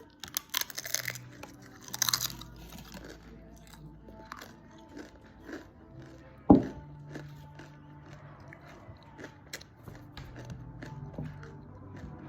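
Crisp food being crunched, with two loud crunching bursts in the first few seconds and scattered smaller crunches and clicks after. A single sharp knock about six and a half seconds in is the loudest sound. Soft background music plays underneath.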